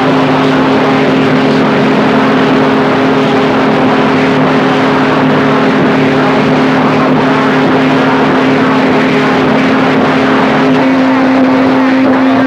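CB radio receiver noise: loud static with several steady low tones from stations keyed up over each other on the channel, the garbled 'train wreck' of doubled transmissions. About eleven seconds in, one tone drops out and a higher one comes in.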